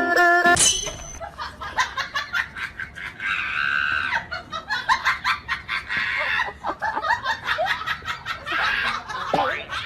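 People laughing in bursts through a home video. Plucked-string background music cuts off about half a second in.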